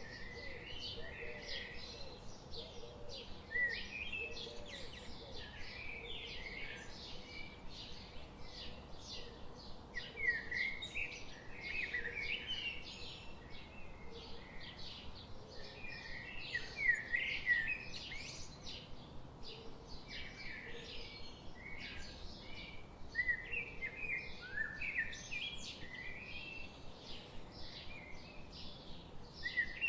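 Many birds chirping continuously: a dense, overlapping chorus of short, high chirps, with a few louder calls about 10, 17 and 23 seconds in.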